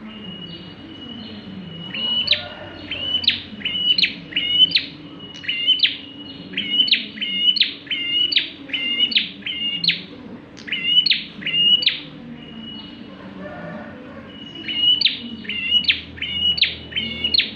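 Prenjak (prinia) singing in full voice. A held high whistle leads into a fast run of sharp, repeated chirping notes, about two a second. The song breaks off briefly and then starts again near the end.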